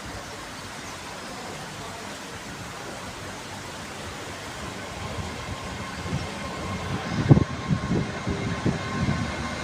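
A train pulling into a station: a steady rumble grows louder, then from about six seconds in comes a run of heavy thuds of the wheels passing over the track, loudest about seven seconds in. Faint steady high tones come in near the end.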